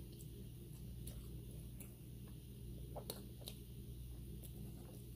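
Faint eating sounds: a few scattered sharp mouth clicks and smacks from chewing jerk chicken, over a steady low electrical hum.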